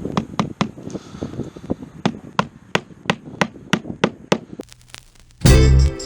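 A new roof shingle being nailed down: a quick, even run of sharp strikes, about three a second, that stops after about four seconds. Background music with a heavy beat comes in near the end.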